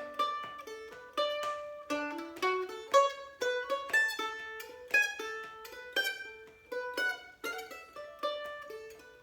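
Instrumental passage on a plucked string instrument: a slow melody of single notes, each plucked note ringing out and fading.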